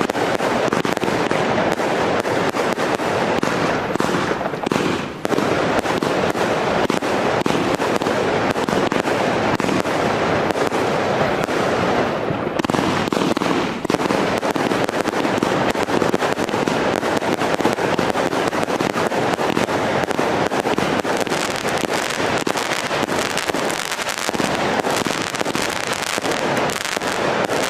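A 200-shot consumer firework cake with 20 mm tubes firing a rapid, continuous barrage of shots, with brief lulls about five and fourteen seconds in.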